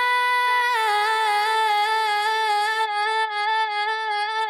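A processed female pop vocal holds one long, high sung note. The pitch steps down slightly about a second in. From about three seconds in the note takes on a fast, even pulsing wobble, the effect of a heavily edited vocal.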